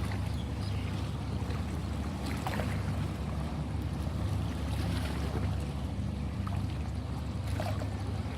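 Sea water sloshing, with small splashes about two and a half seconds in and again near the end, over a steady low rumble.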